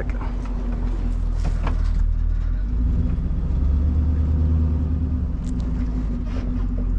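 An engine running steadily with a low rumble and a constant hum, with a few faint knocks.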